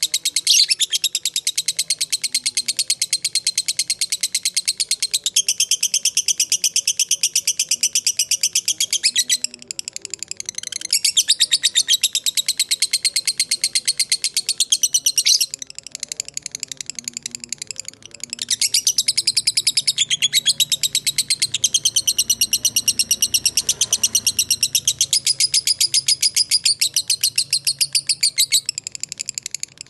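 Lovebird ngekek: long, very rapid, high chattering trills, each run lasting several seconds, with short breaks between runs.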